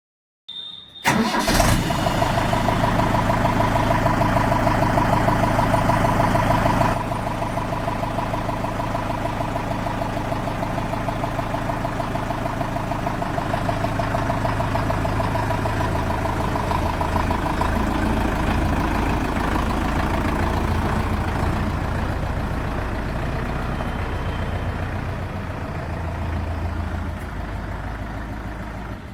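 Mahindra tractor's diesel engine starting about a second in and then running steadily, a little quieter after about seven seconds.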